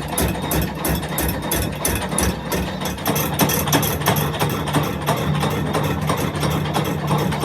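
A machine running steadily, with a low hum and a rapid, regular ticking of about five clicks a second.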